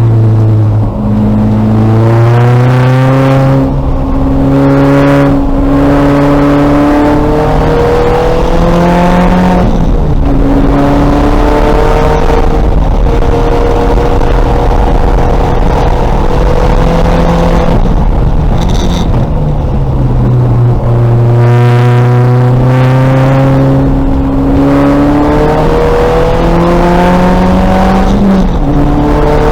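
2000 VW Golf race car's engine under hard acceleration, revving up through the gears with sudden drops in pitch at each upshift, then easing to lower revs as it slows for corners before pulling hard again.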